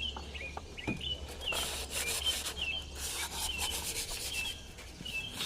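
Hand rubbing strokes, scraping and sanding a Mercedes-Benz diesel engine block clean to take a new head gasket. The strokes come quickly and unevenly and grow busier about a second and a half in.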